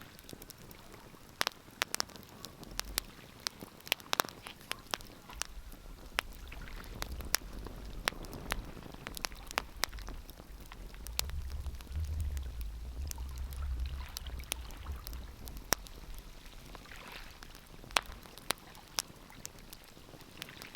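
Wood fire crackling, with sharp irregular pops and snaps. A low rumble swells in the middle and fades again.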